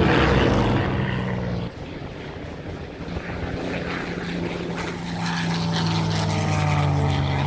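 Piston engine of a propeller aircraft running steadily. It drops suddenly in level a couple of seconds in, then slowly grows louder again.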